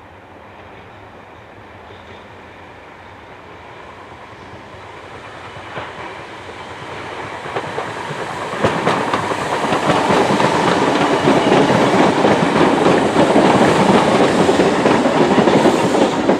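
A Class 313 electric multiple unit approaching and running in. It grows steadily louder, jumping sharply in loudness about eight and a half seconds in, with a few clicks from the wheels.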